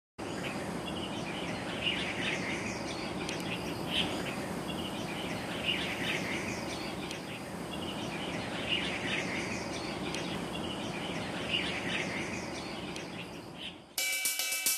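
Outdoor ambience: steady background noise with a bird calling in short chirping phrases about every two seconds. Near the end it cuts suddenly to music with cymbals and hi-hat.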